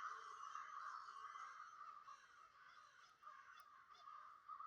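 Faint bird chatter: a steady, busy twittering that fades away over the first couple of seconds.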